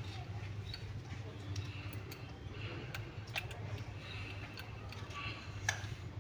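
Scattered small clicks and taps of wires and connectors being handled and plugged into an amplifier board, the sharpest near the end, over a steady low hum.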